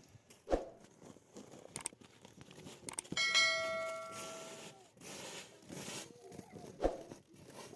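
A single bell-like metallic ring about three seconds in, dying away over about a second and a half. Dull knocks come shortly after the start and near the end.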